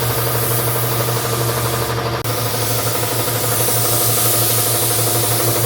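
Paint spray gun hissing as a coat of paint goes on, over a steady motor hum. The sound breaks off for an instant about two seconds in.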